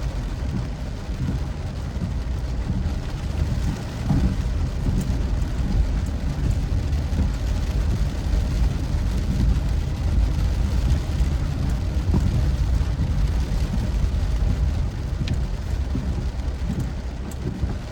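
Steady low rumble of a moving car, engine and tyre noise heard from inside the vehicle.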